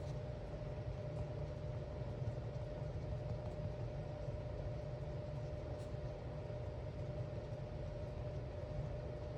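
Steady low rumble with a faint constant hum over it, and a faint click about six seconds in.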